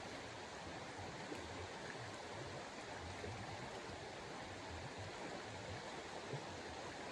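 Steady rushing noise of a snowstorm, with uneven low rumbling and a couple of faint ticks.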